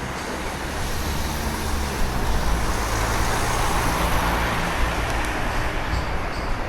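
Road traffic passing: a steady broad rush that swells to its loudest about four seconds in and then eases, as a vehicle goes by.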